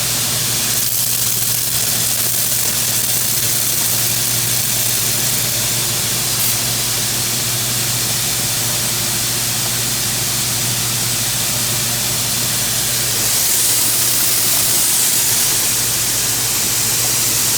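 Steady loud rushing hiss of running machinery with a low, even hum underneath, growing slightly louder near the end.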